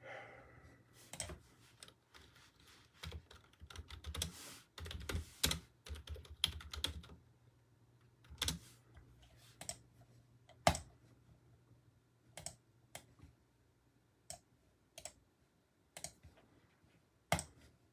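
Typing on a computer keyboard: a quick run of keystrokes for the first seven seconds or so, then single key presses about a second apart.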